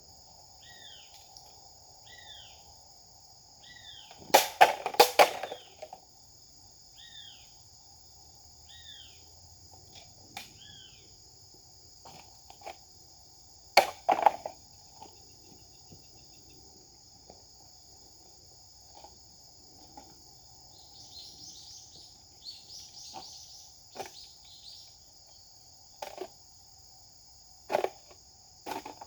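Steady high insect chorus, with a bird giving short falling chirps again and again. A rapid cluster of sharp knocks comes about four seconds in, and single sharp knocks follow later.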